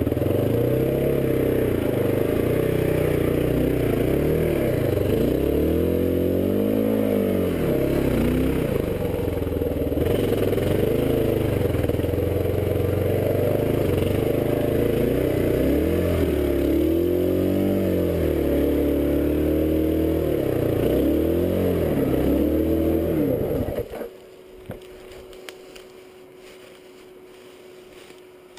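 Kawasaki KLR650's single-cylinder four-stroke engine working hard on a rough, muddy trail, its revs rising and falling again and again. Near the end the engine cuts off suddenly, leaving only a faint background hum.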